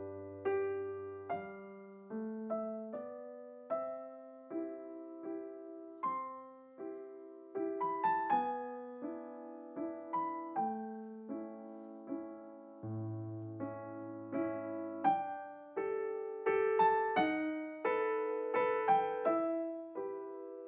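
Background music played on solo piano: a gentle, tender piece of struck chords and melody notes that each ring and fade.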